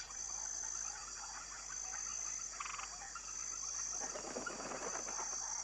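Swamp chorus of frogs calling, many small pulsed croaks overlapping, with a steady high insect-like trill above them. One louder pulsed call comes about two and a half seconds in, and a short rustle of noise follows a little past the middle.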